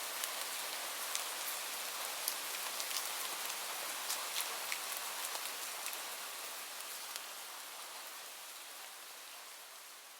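Steady rain falling on a surface, with individual drops ticking sharply over the hiss. From about halfway through it fades steadily away.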